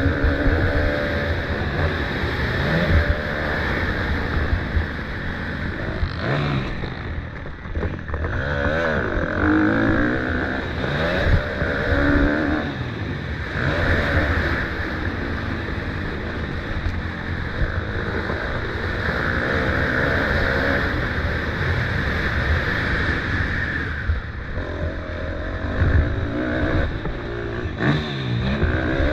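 Motocross bike engines revving hard and dropping off over and over as they are ridden around the track, the pitch climbing and falling every second or two.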